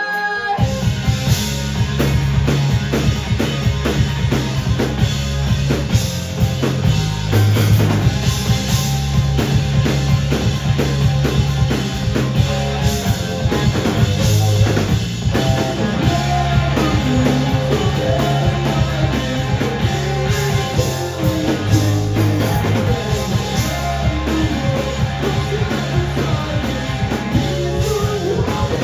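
Live rock band playing loud with drum kit and bass, the full band crashing in together just after the start after a sung line.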